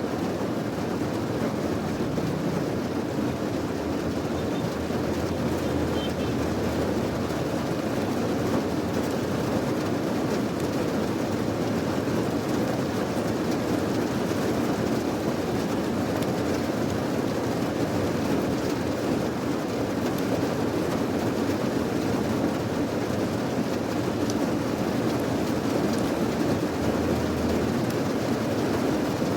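Steady rain falling, an even, unbroken noise.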